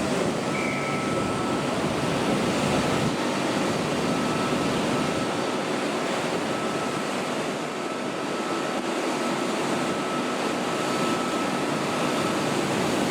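Electric passenger train at a station platform: a steady hum and rumble with a faint, steady high whine. The deeper rumble drops away about three seconds in.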